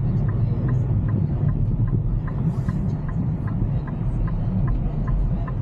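Steady low road rumble inside a moving car's cabin, with a faint, regular ticking about four times a second.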